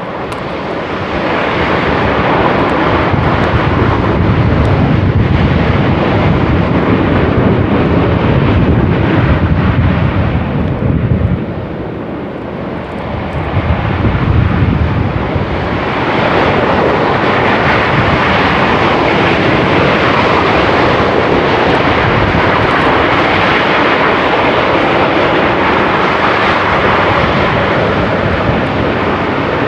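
Semeru volcano's crater venting ash continuously: a loud, steady jet-like rushing roar. It dips for a couple of seconds about eleven seconds in, then swells back.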